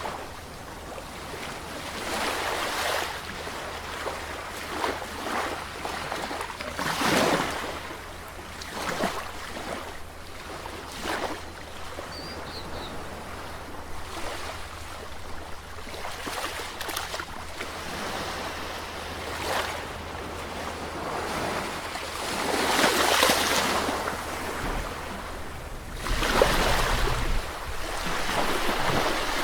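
Sea waves breaking and washing in, one surge after another every few seconds, the strongest about two-thirds of the way through and again near the end.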